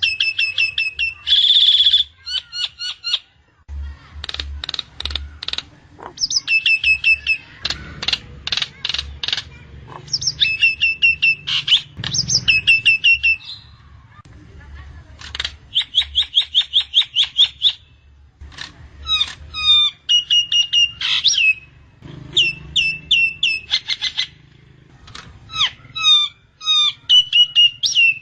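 Nias hill myna calling in loud bursts. Each phrase is a second or two of rapid repeated notes and whistles, the phrases coming one after another with short pauses.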